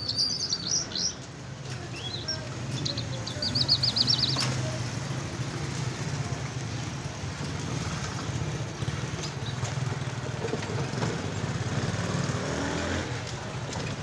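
A caged bird singing in quick runs of high chirping notes, two bursts in the first few seconds, then falling silent. A steady low engine hum underneath.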